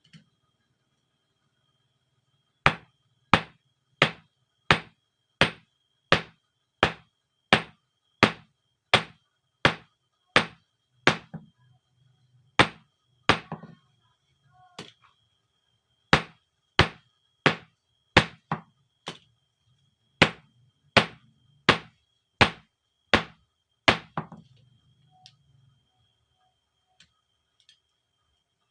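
Hand hammer striking steel on an anvil in a steady rhythm, about three blows every two seconds: forging a knife blade from the steel of an old bearing. The blows break off briefly about halfway and then resume, stopping a few seconds before the end.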